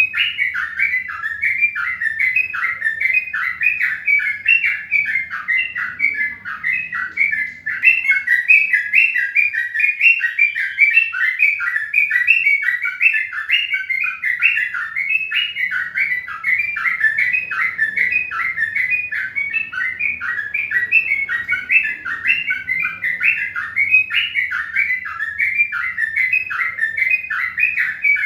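Birds chirping in a steady, unbroken run of short notes, about four a second.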